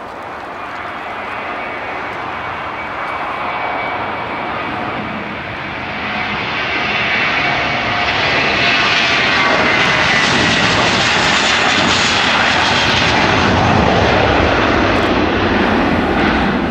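Airbus A321 jet airliner's engines at takeoff power, a loud jet noise with a faint high whine, building steadily to its loudest about eight seconds in and holding there, easing slightly near the end.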